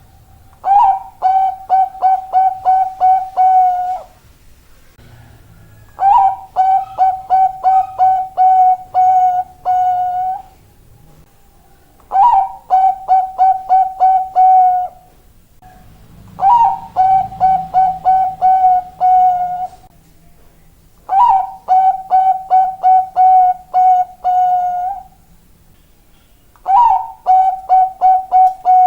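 Zebra dove (Bangkok-type perkutut) singing: six repeated phrases, each a rising opening note followed by a quick run of about eight short, even coos, coming about every five seconds.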